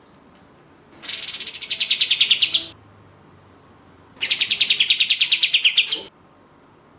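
Olive-winged bulbul (kapas tembak) giving two rapid rattling trills, each under two seconds long, of about ten quick notes a second that slide down in pitch.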